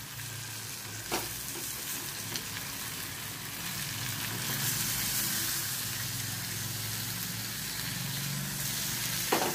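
Masala-stuffed brinjals sizzling steadily in hot oil in a steel pan as they are set in one by one, with a light knock about a second in and another near the end.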